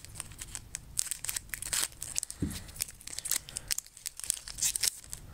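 Foil booster-pack wrapper crinkling and tearing as it is pulled open by hand, a string of irregular crackles.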